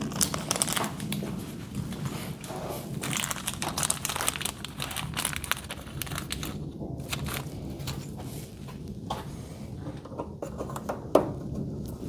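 Crinkling, rustling handling noise with many small clicks, and one sharp click about eleven seconds in.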